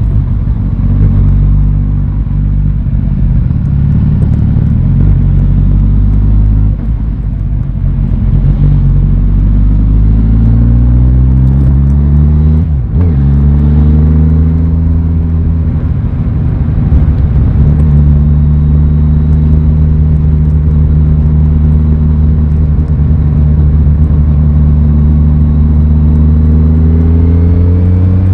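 Aprilia Tuono 660's parallel-twin engine running under way, its revs climbing about a third of the way in, dipping sharply for a moment near the halfway mark, holding steady for a long stretch, then climbing again near the end.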